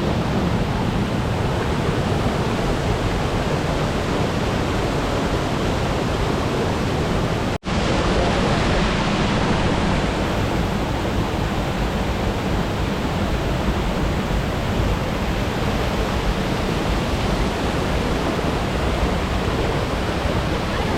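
Waterfall pouring: a loud, steady rush of falling water, with a split-second break about seven and a half seconds in where the recording cuts.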